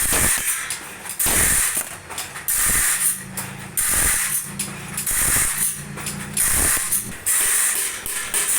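Saw-blade workshop machine cycling with a regular mechanical stroke about every 1.3 s, a ratcheting clatter with hiss on each stroke.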